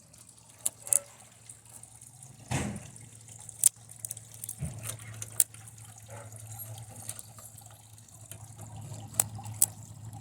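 Scattered crackles and sharp pops of electrical arcing as high-current leads from a lead-acid battery burn and melt the chips on a TV circuit board, over a low steady hum.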